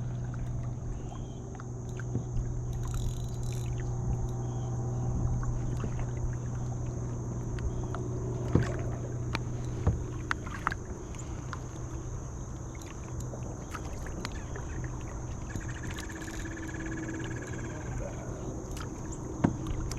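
Kayak on the water with a steady low hum throughout and scattered light knocks and ticks against the hull.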